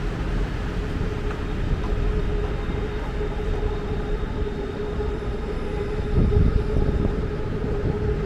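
Elevated BTS Skytrain running past with a steady motor hum over a low rumble, swelling briefly about six seconds in.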